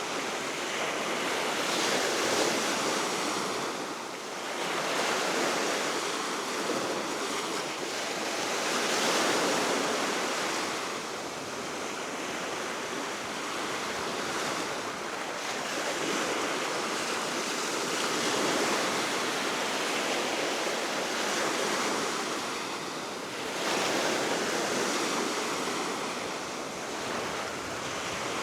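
Baltic Sea waves breaking and washing on the shore below a cliff, swelling and ebbing every few seconds, with steady wind and some wind noise on the microphone.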